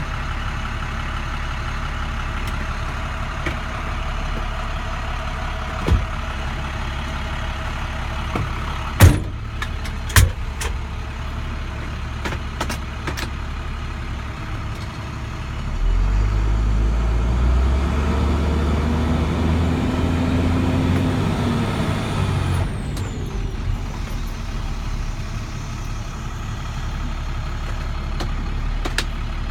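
International 4300's DT466 inline-six turbo diesel running, with a few sharp knocks near the start. About halfway through the engine revs up under load, its pitch rising then falling over several seconds, and a high whistle falls away as it eases off.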